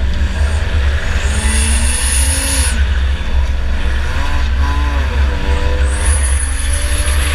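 2004 Chevy Impala enduro car's engine running hard in a race, its pitch rising and falling as the throttle comes on and off, over a heavy low rumble. A thin, high whine comes in twice.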